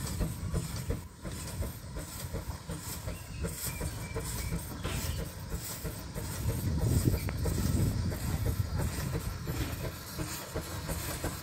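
Baker steam traction engine working under steam: a fast run of exhaust chuffs from the stack with steam hissing, getting louder for a couple of seconds past the middle.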